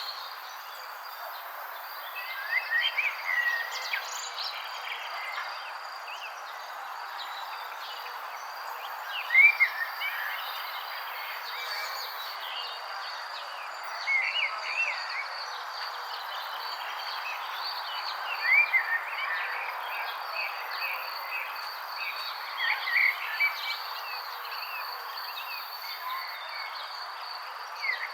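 Songbird repeating a short phrase of quick, curving whistled notes every four or five seconds, over a continuous high insect trill and a steady hiss of background chorus.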